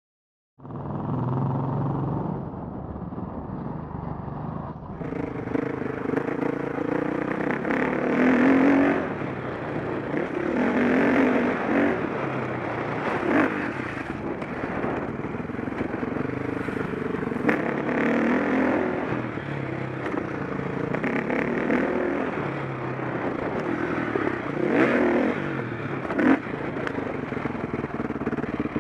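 KTM 525 SX motocross bike's four-stroke single-cylinder engine revving up and down repeatedly as it is ridden, with a few sharp knocks along the way. The engine sound is duller for the first few seconds and opens up about five seconds in.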